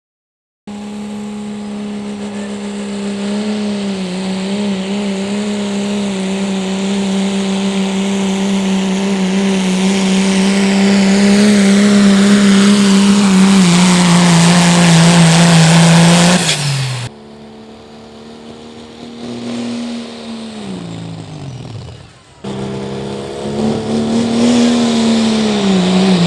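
Pro Street diesel pickup engine held at high revs under load during a pull, growing steadily louder. About two-thirds through it cuts off suddenly, and the engine is then heard winding down with falling pitch, twice.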